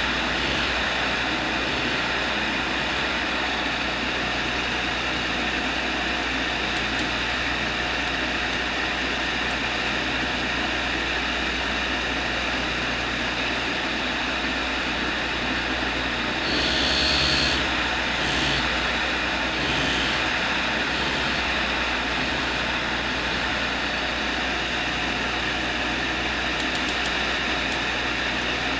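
A machine running steadily, with a brief louder hiss about seventeen seconds in.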